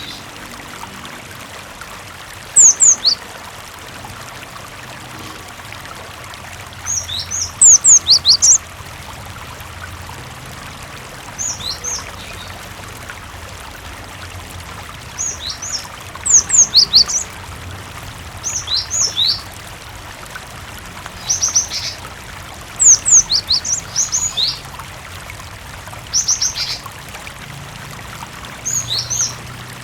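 Cinereous tit (gelatik batu) singing: short phrases of quick, high, falling whistled notes, repeated every two to four seconds, about ten times. They sound over a steady background of running water.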